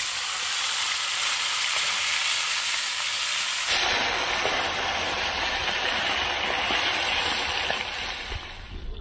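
Chicken pieces sizzling steadily as they fry in hot oil in a skillet, with tongs turning them. The sizzle fades a little near the end.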